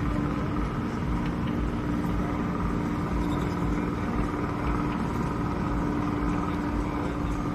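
Diesel boat engine running steadily at constant speed: a low rumble with a steady drone.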